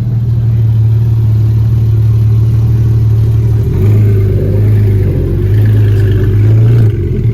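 Car engine running close by with a steady low drone. Its pitch shifts slightly about four seconds in, and it dips briefly near the end.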